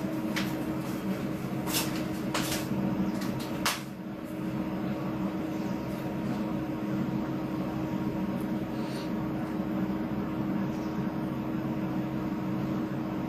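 Steady mechanical hum with a few sharp clicks in the first four seconds.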